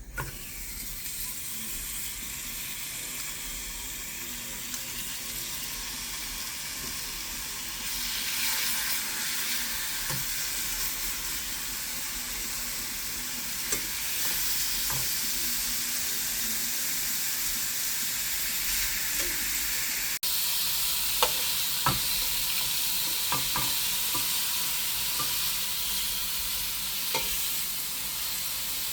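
Chicken frying in a hot pan, sizzling steadily; the sizzle grows louder about eight seconds in. In the second half a few light clicks sound over the sizzle.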